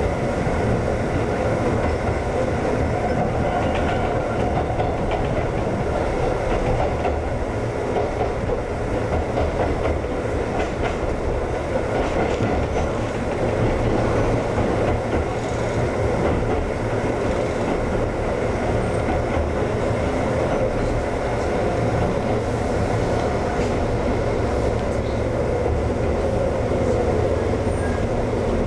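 Ex-Tokyu 7000 series electric train running steadily along the line: a constant rumble of wheels on rail, with occasional clicks over rail joints.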